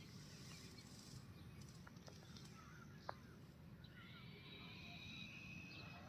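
Faint bird chirps over quiet outdoor background noise, with a longer high note from about four seconds in and a single sharp click about three seconds in.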